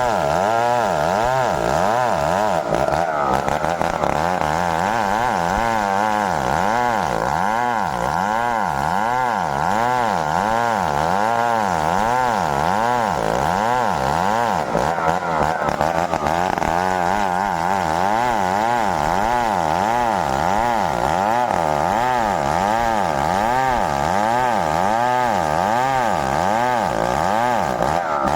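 Stihl 070 two-stroke chainsaw running continuously while cutting merbau timber. Its engine pitch rises and falls over and over, about once or twice a second, without a break.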